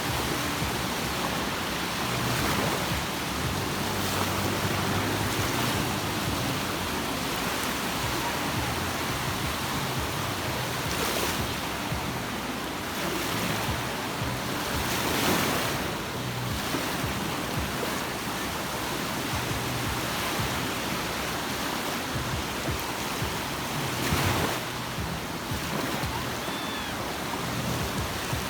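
Sea waves washing onto the shore: a steady hiss of surf with several louder surges as waves break and run up the beach.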